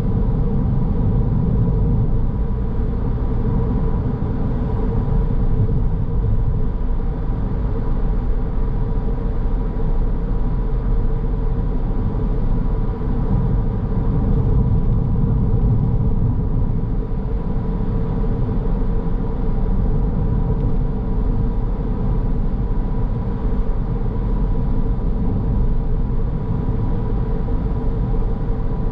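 Car driving along at steady speed: a continuous low rumble of road and engine noise, with a faint steady hum over it.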